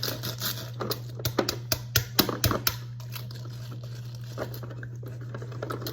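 Skincare bottles and jars being handled and set onto the shelves of a small plastic mini fridge: a run of light clicks and taps, busiest for a couple of seconds near the start, over a steady low hum.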